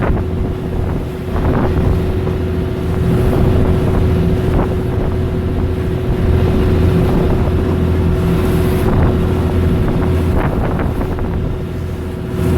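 Motorboat engine running at a steady drone while under way, with wind buffeting the microphone.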